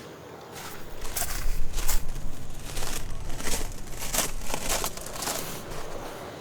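Crinkling, rustling handling noise in a quick run of sharp bursts, starting about half a second in and easing off near the end, over a low rumble.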